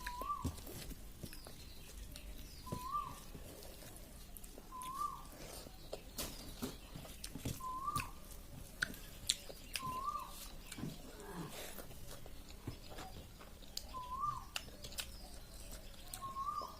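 A bird repeats a short, rising-then-falling call about every two to three seconds. Beneath it are scattered sharp clicks and smacks of eating.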